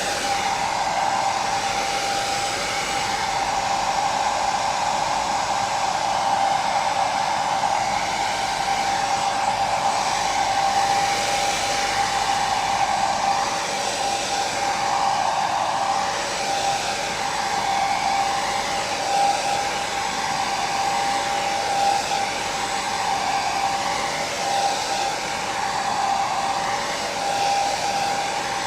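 Electric hair dryer running steadily: an even rushing of fan and airflow with a constant motor whine.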